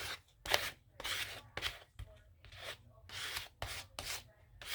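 Scissors cutting paper in a run of short snips, about two a second.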